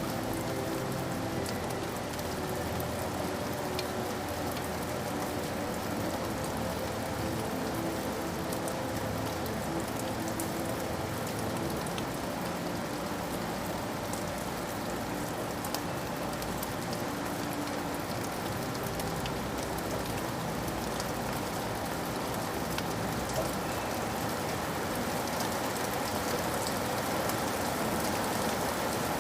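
Steady rain falling, with a constant hiss and scattered individual drops ticking on surfaces.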